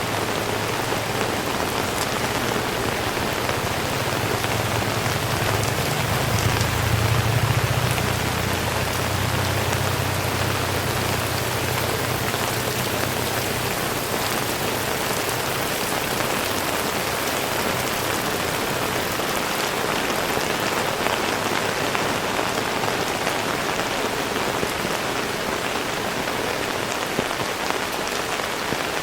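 Heavy rain falling steadily, a dense even hiss of drops on surfaces. A low rumble swells about six seconds in and fades away over the following ten seconds or so.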